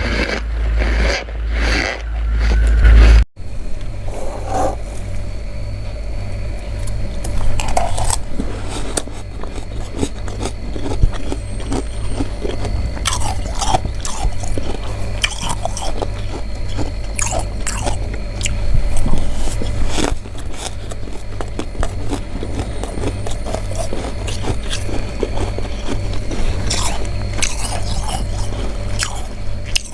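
Crunchy freezer frost being bitten and chewed close to the microphone: many crisp crunches in quick succession. For the first three seconds there is loud, low scraping, which cuts off abruptly.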